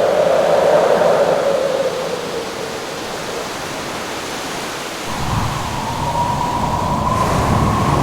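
Howling wind over a steady rushing of surf, with a whistling tone that swells and then sinks. About five seconds in a low rumble comes in and the whistle jumps to a higher, steady pitch.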